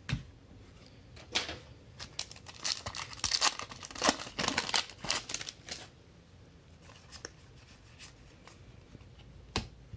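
Trading cards and their foil pack wrapping being handled: a run of sharp rustling and tearing noises over a few seconds, then quieter, with a single click near the end.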